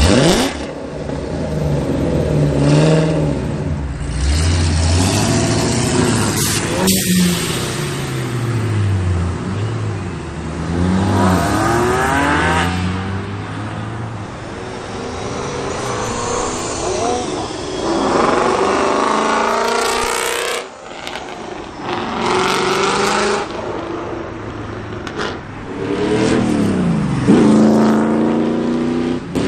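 Several cars accelerating away one after another, each engine revving up through its gears as it passes.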